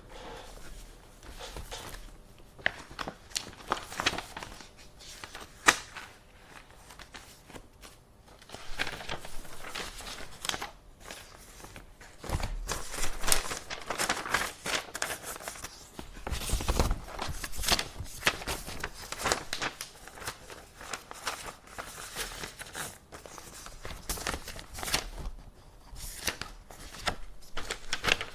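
Paper being handled: sheets rustling and crinkling, mixed with scattered light clicks and knocks.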